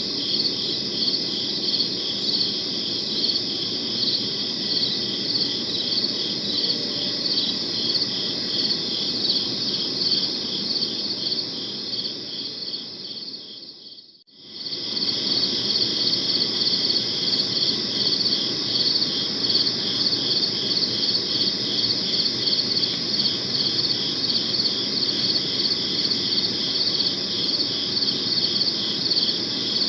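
A chorus of crickets chirping steadily in fast, evenly pulsed trills. Halfway through it fades out almost to nothing and swells straight back in, as at a loop join.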